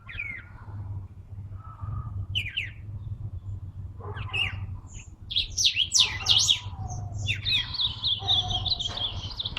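Caged songbirds chirping and singing in short calls and warbled phrases, ending in a fast trill over the last two seconds, over a steady low hum.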